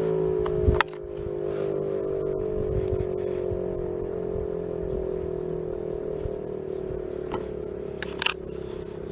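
Outdoor warning siren winding down: several tones sounding together as a chord, their pitch slowly sinking. A sharp click about a second in, and faint insect chirping behind.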